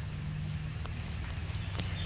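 Footsteps on a muddy trail, a few separate steps over a steady low rumble.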